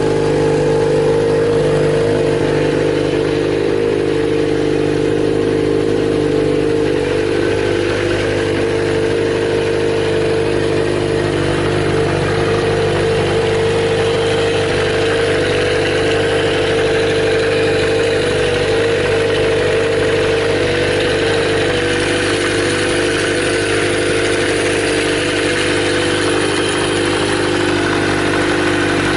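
Kawasaki Z400J's air-cooled inline-four engine idling steadily at an even pitch.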